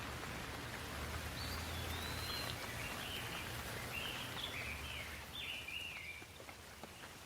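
Steady rain falling, an even hiss, with a bird giving a run of short chirping calls through the middle. A low rumble underneath fades out about five seconds in.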